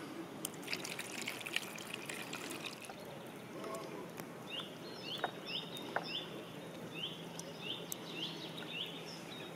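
Running river water, with scattered small clicks. From about halfway through, a bird calls over and over: short, high chirps that drop in pitch, about two a second.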